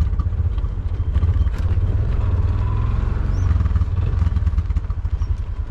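Tuk-tuk's small engine running with a steady low, pulsing putter, with a few sharp knocks and rattles over it.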